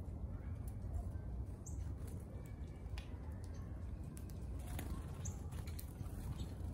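Wild birds giving a few short, high chirps over a steady low rumble.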